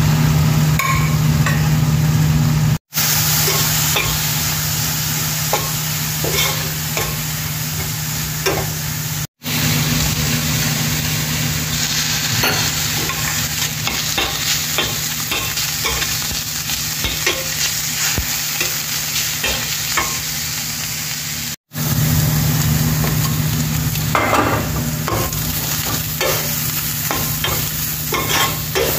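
Chopped meat and vegetables sizzling in a stainless steel pot while a spoon stirs and scrapes against the pot, with a steady low hum underneath. The sound cuts out briefly three times.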